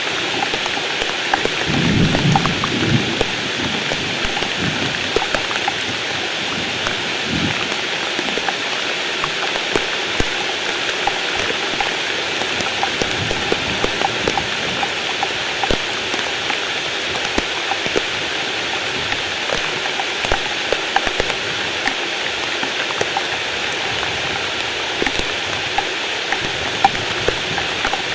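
Heavy rain falling steadily, a dense patter of drops. A low rumble of thunder comes about two seconds in, and a shorter one around seven seconds.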